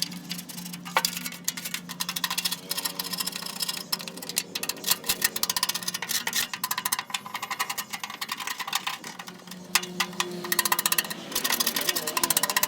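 Rapid, irregular scrubbing strokes on the rusty metal casing of a microwave, with a faint steady hum underneath.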